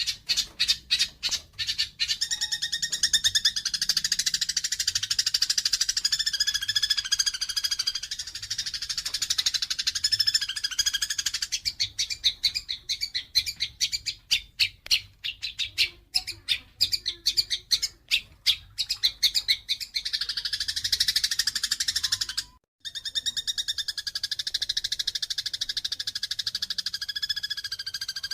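Eurasian tree sparrows giving fighting calls: fast, dense runs of harsh high chirps and chatter, with a brief break about 23 seconds in.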